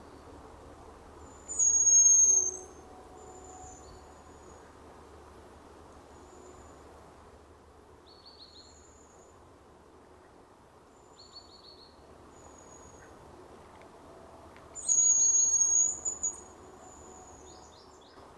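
Hazel grouse whistling: two loud, very high, thin whistled phrases, one about two seconds in and one near the end, with fainter short whistles and brief trilled notes between them.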